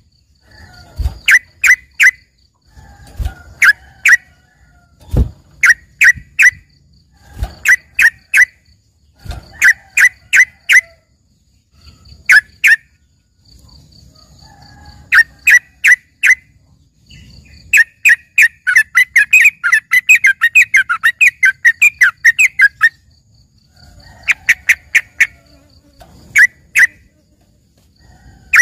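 Yellow-vented bulbul (trucukan) singing loud, sharp notes in quick clusters of two to four, a cluster every second or two, breaking into a rapid chattering run for about five seconds past the middle. Its trained song has phrases that recall a greater green leafbird. A few dull low thumps come in the first ten seconds.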